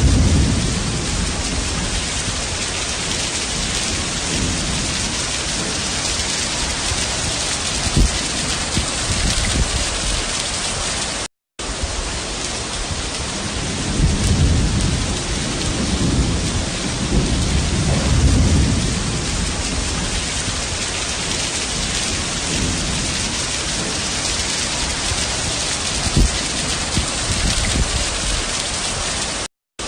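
Heavy rain pouring down in a steady, loud hiss, with low rumbling that swells about halfway through. The sound cuts out for a moment twice.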